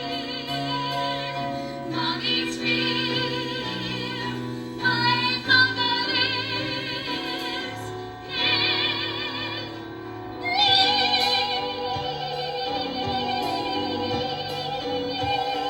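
A woman singing long held notes in an operatic style with wide vibrato, over instrumental accompaniment. A new, higher held note starts about ten seconds in.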